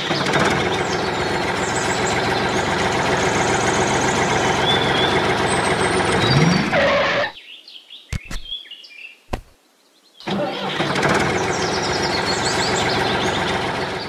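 Miniature toy tractor running with a steady engine sound. It stops about seven seconds in, leaving a few light clicks, and starts again about ten seconds in.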